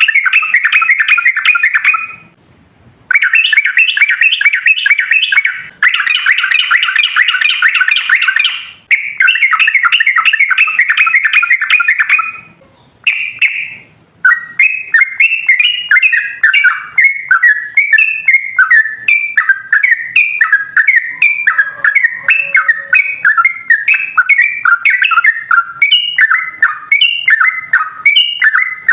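Yellow-vented bulbul (trucukan) singing: long runs of rapid chattering trills broken by short pauses, then about halfway through a looser series of separate phrases, two or three a second.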